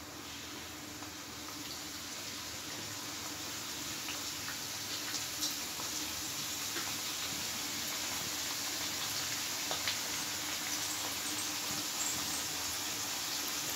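Stuffed chicken kachori shallow-frying in hot oil in a pan: steady sizzling with a few small pops, growing slowly louder.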